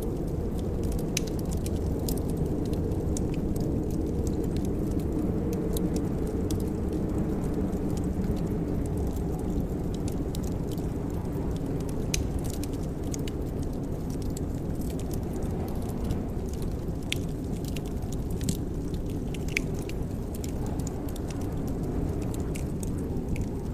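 Fireplace wood fire crackling: irregular sharp pops and ticks over a steady low rumble.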